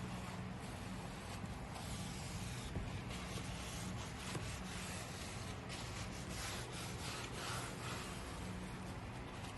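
Faint crackling fizz of a baking soda and vinegar reaction foaming up, heard mostly from about two seconds in to near the end, over a steady low hum.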